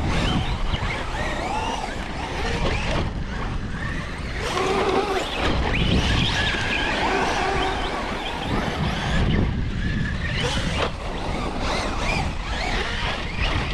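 Wind rumbling on the microphone, with radio-controlled trucks' electric motors whining up and down in pitch as they are driven.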